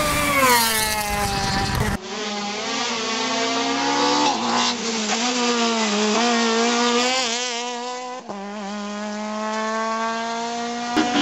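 Rally car engines at high revs. The first car's note drops sharply in pitch as it passes. About two seconds in, a second rally car takes over, its engine held at a high, steady pitch that wavers for a few seconds and then climbs slowly.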